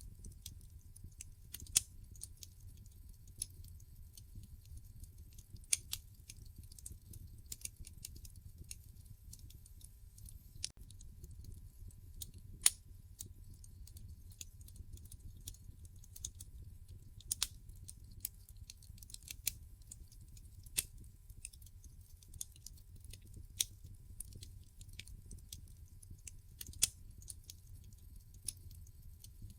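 Log fire in a fireplace crackling: irregular sharp pops and snaps, a few louder than the rest, over a steady low rumble of the flames.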